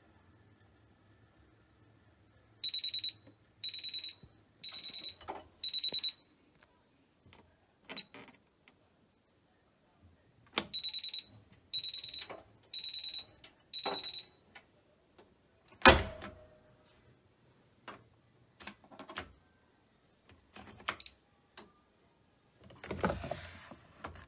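High electronic beeping in two rounds of four beeps, about one beep a second, with scattered clicks and knocks around it and one louder thump about two-thirds of the way through.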